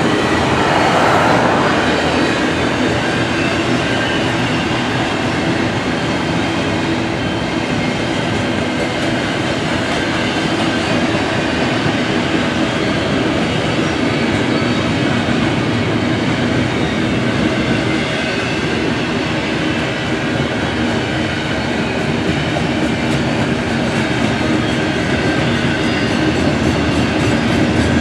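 Norfolk Southern freight train rolling past, a steady loud rumble of steel wheels on the rails.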